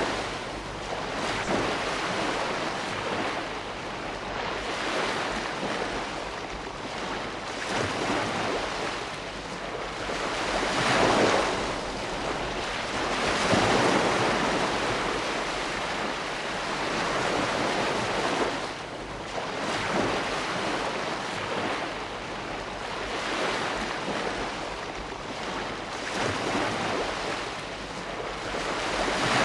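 Ocean waves breaking and washing up the shore in a steady, rushing wash that swells and fades every few seconds. Louder surges come about a third of the way in, again shortly after, and near the end.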